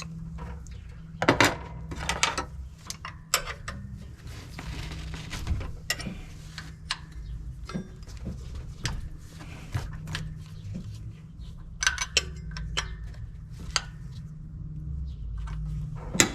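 Hand tools clinking and knocking on metal while working on the engine's thermostat housing: scattered sharp metallic clicks, about a dozen, over a steady low hum.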